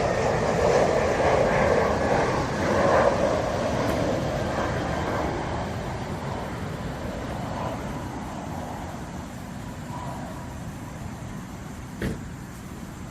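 Road traffic noise, loudest at the start and slowly fading as the vehicle noise recedes, with a short knock near the end.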